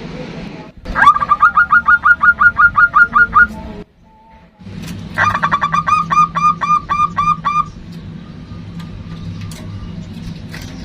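Zebra dove (perkutut) calling: two fast runs of repeated clipped notes, about five a second, each with a quick downward slur, a short pause between the runs.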